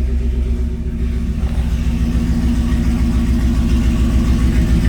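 Truck engine idling with an even, loping pulse. The owner takes it for a 360 Magnum V8. It gets a little louder about a second in.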